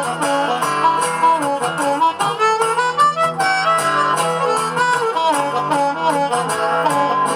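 Instrumental break in a live bard-song performance: a harmonica plays a lively melody over guitar accompaniment.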